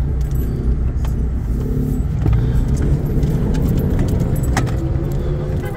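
Car running at low speed, heard from inside the cabin: a steady low engine and road rumble with small clicks and rattles.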